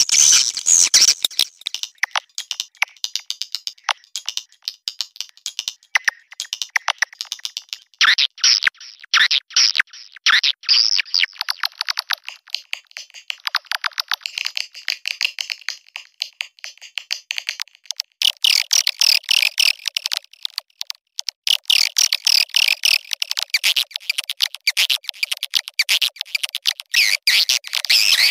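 Swiftlets twittering in a dense run of rapid high chirps and clicking rattles, thinning out midway and thickening again near the end: a swiftlet mating and calling sound.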